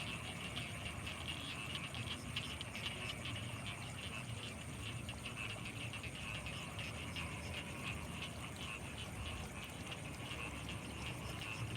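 Chorus of frogs calling in many short, rapid notes, heard against a steady high-pitched tone and a low rumble.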